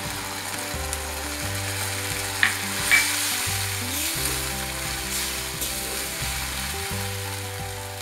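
Gravy ingredients sizzling in a steel kadhai as half a bowl of water is poured in and stirred with a wooden spatula, with two spatula taps on the pan about two and a half and three seconds in. Low, sustained background music plays underneath.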